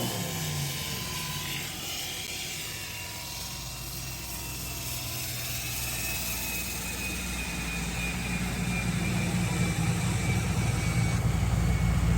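Car engine dropping from a dyno pull, with a thin whine slowly falling in pitch as the chassis dyno's rollers coast down. A low steady engine hum builds louder through the second half.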